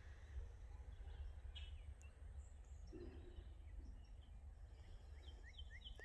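Faint songbirds chirping: scattered single chirps, then near the end a quick run of short repeated notes, over a low steady rumble.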